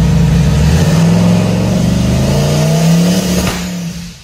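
Boosted car engine heard from inside the cabin, running steadily, then rising in pitch as it revs from about 1,500 to about 2,600 rpm while the boost gauge still reads vacuum. A sharp crack comes about three and a half seconds in, then the engine note falls away.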